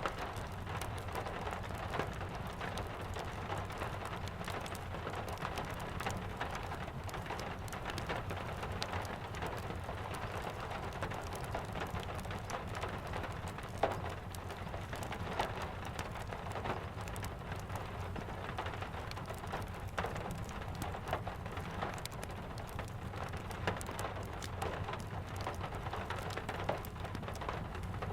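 Steady rain falling, with a low rumble underneath and scattered sharp pops from a crackling wood fire.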